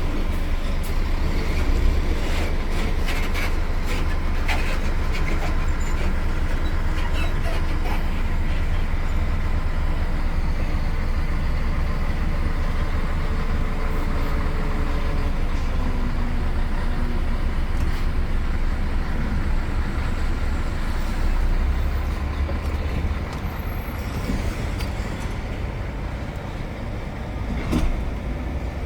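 Heavy truck's diesel engine running with a steady low drone, heard from inside the cab, with road noise and scattered clicks and rattles. It gets somewhat quieter about three-quarters of the way through, with a brief swell near the end.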